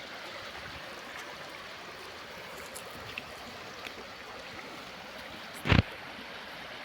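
Steady rushing of a flowing mountain stream, with one brief loud burst of sound a little under six seconds in.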